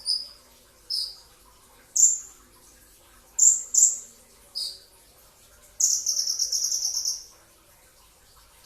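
Van Hasselt's sunbird (kolibri ninja) singing: sharp, high chirps that drop in pitch, about one a second, then a fast trill of about a dozen notes a little past the middle.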